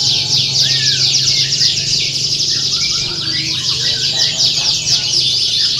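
Many domestic canaries singing at once in a continuous dense chorus of rapid trills and sweeping notes, with a steady low hum underneath.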